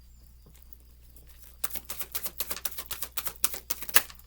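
Tarot cards being shuffled by hand: after a quiet start, a quick run of crisp card clicks and flicks begins about a second and a half in and keeps going.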